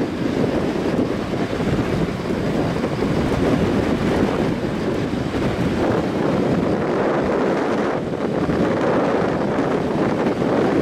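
Wind buffeting the microphone over the steady rush of a typhoon-flooded river.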